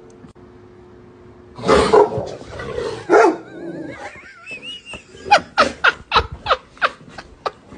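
A dog giving a few loud, rough barks, then a quick run of about ten short yelps, each falling in pitch, roughly three a second.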